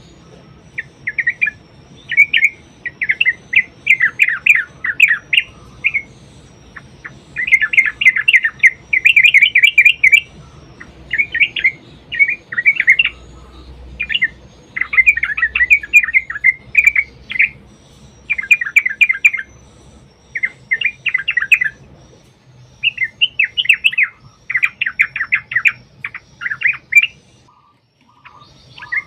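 Yellow-vented bulbuls (trucukan) singing: rapid, bubbly chattering phrases of one to two seconds each, one after another with short pauses, falling quiet for a moment near the end.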